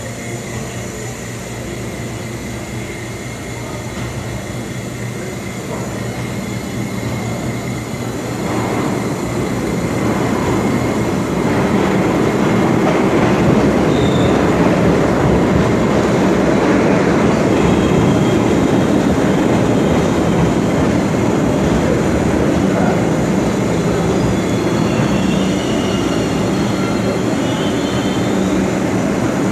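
New York City subway train approaching, its rumble of wheels on rails growing louder over several seconds, then holding steady.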